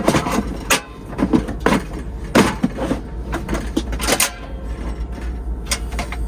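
A string of irregular knocks and clatters, like objects being handled and set down, over a steady low hum.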